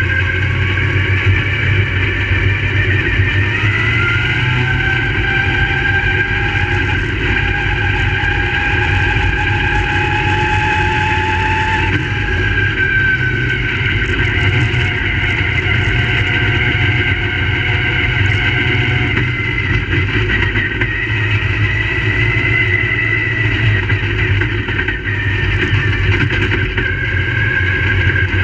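Several crate late model race cars' V8 engines running on a dirt oval, overlapping, their pitch slowly rising and falling as they throttle up and back off.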